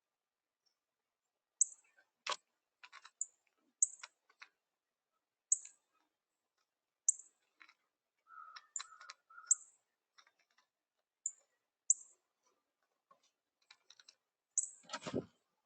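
A small bird repeating short, sharp, high chip notes every second or two, among scattered light clicks and taps. Three short lower notes come around the middle, and a louder thump near the end.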